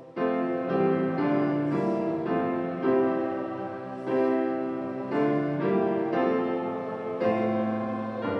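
Piano playing a slow hymn tune in full chords, each new chord struck about every half second to a second and left to ring.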